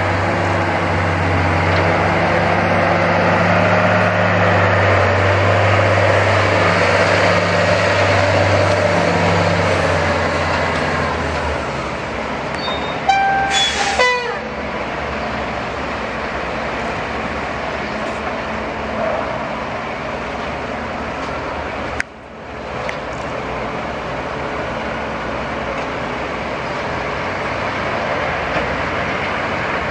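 Heavy Tatra dump truck diesel engine running with a deep steady hum that fades after about eleven seconds, leaving a steady machine rumble. About thirteen seconds in a vehicle horn gives a short toot, followed by a quick falling tone.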